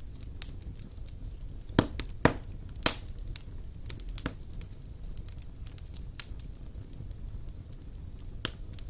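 Wood burning in a fireplace: irregular crackles and pops over a steady low rumble of flame, with three louder pops about two, two and a half and three seconds in.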